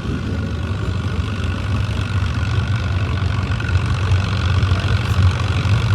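Allis-Chalmers WD tractor's engine running steadily under load while pulling the weight sled, getting a little louder in the second half.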